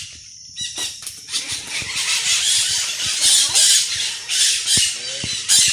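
Outdoor rural sound: a rough hiss that swells and fades, with scattered clicks and a few short pitched calls, like an animal or bird.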